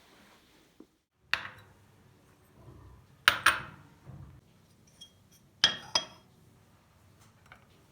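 Kitchen dishes and glassware being handled, with sharp ringing clinks: one about a second in, a close pair around three seconds in, and another pair near six seconds.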